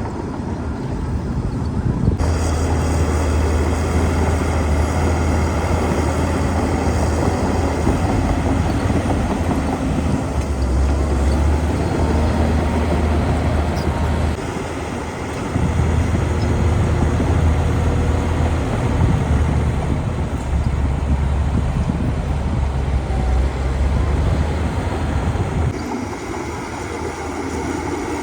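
Heavy diesel engine of an earthmoving machine working under load, a deep drone that rises about two seconds in, dips briefly midway, and eases off near the end.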